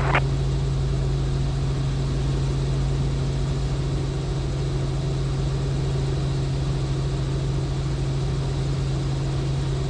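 Robinson R44 helicopter in flight: the piston engine and rotors make a steady, unchanging low drone.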